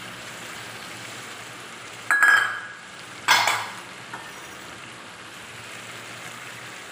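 Chicken masala sizzling steadily in oil in an aluminium pot, fried until the oil has separated. A wooden spoon scrapes loudly against the pot twice, about two and three seconds in.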